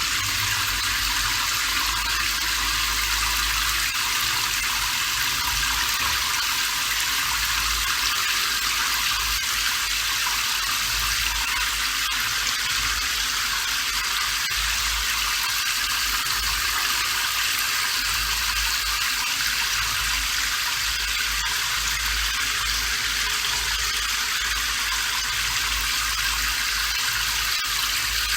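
Steady, unbroken rain noise, a dense even hiss with most of its energy in the upper range and little low rumble.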